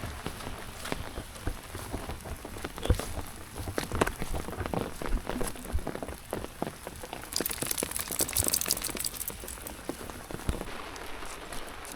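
Rain falling, with many irregular drops tapping close by and a high hiss for a couple of seconds in the second half.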